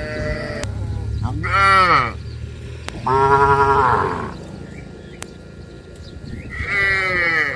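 Cattle mooing: four calls in turn, the longest and loudest about three seconds in.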